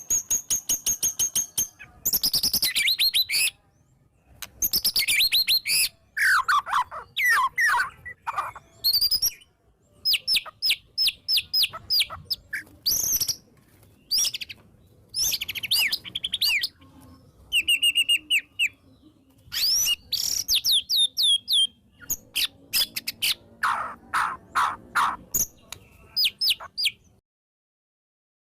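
White-rumped shama (murai batu) singing hard: loud, varied phrases of rapid repeated sharp notes and sweeping whistles, with short pauses between phrases and the song stopping suddenly near the end.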